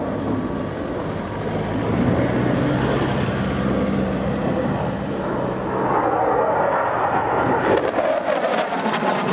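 Saab 37 Viggen fighter, powered by a Volvo RM8 turbofan, making a very high-speed low pass. A loud jet roar builds in the first couple of seconds and holds through the middle. Its high-pitched part falls away about six seconds in, leaving a lower, rumbling noise as the jet moves off.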